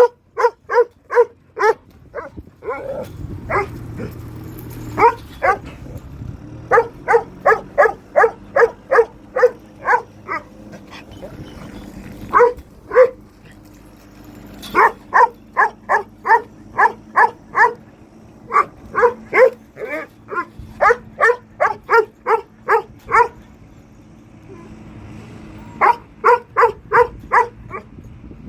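An animal calling in rapid series of short, sharp, pitched calls, about four a second, in bouts of a few seconds separated by short pauses.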